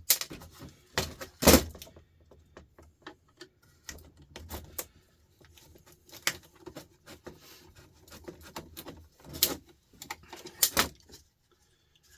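Irregular clinks, taps and knocks of hand tools and metal and plastic parts as a power sander is taken apart, with a few sharper knocks, the loudest about a second and a half in.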